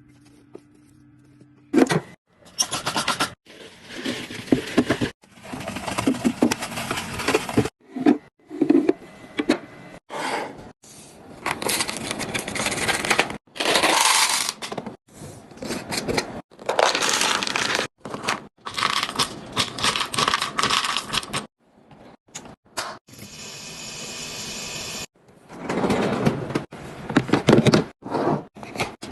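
Restocking a mini fridge: a rapid series of handling noises, packaging and containers rustling, scraping and rattling, in short segments that start and stop abruptly.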